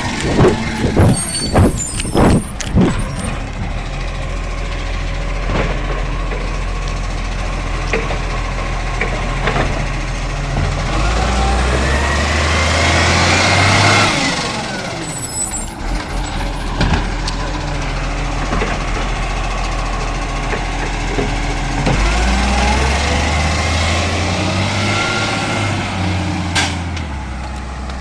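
Garbage truck's diesel engine running and twice revving up in a rising surge, with sharp knocks in the first few seconds and a brief hiss of air brakes about halfway through.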